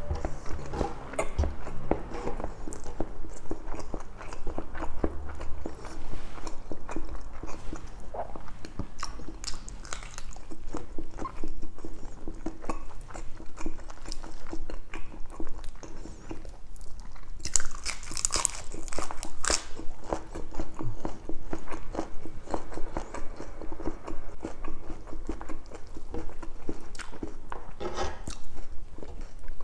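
A person chewing and biting into food close to the microphone, with wet smacking and crisp crunchy bites, louder bites coming in a cluster past the middle and again near the end.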